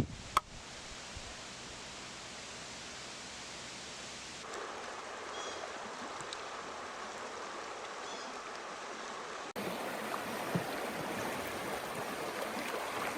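River water running in a steady, even rush, with a sharp click just after the start. The sound steps up abruptly in level twice, at about four and a half and nine and a half seconds.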